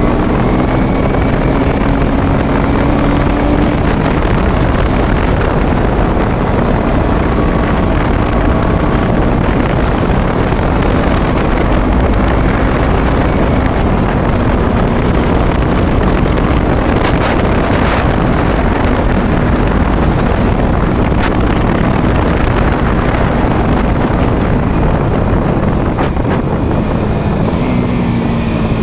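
Motorcycle engine running while riding, its pitch drifting gently up and down with speed, under heavy wind noise on the microphone.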